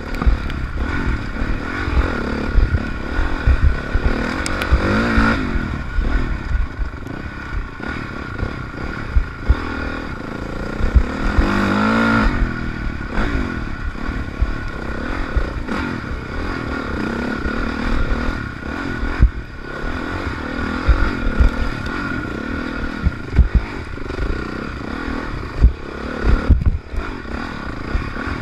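Honda CRF450R's single-cylinder four-stroke engine revving up and down as the dirt bike is ridden hard along a rough enduro trail, heard close from the bike-mounted camera. Short clattering knocks from the bike over bumps run through it.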